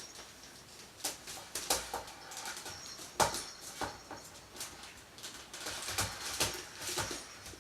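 A baby handling a basket: irregular light crackles and clicks as it is grabbed and moved, with a few sharper knocks.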